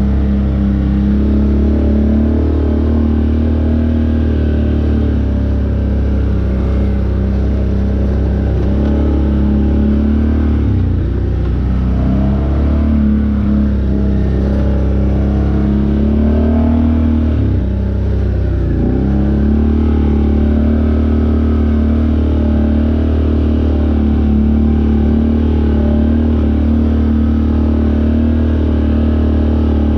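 Off-road vehicle engine running steadily under way, its pitch dropping and climbing back twice, about ten and eighteen seconds in, as the throttle is eased and reapplied.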